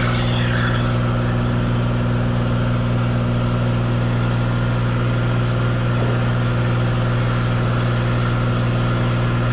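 Cessna 182 Skylane's piston engine running steadily while the plane taxis, a constant drone with a strong low hum.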